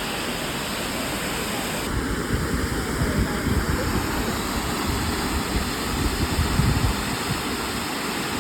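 Steady rushing noise of a waterfall. About two seconds in the sound changes abruptly, and uneven low rumbling runs through the middle of it.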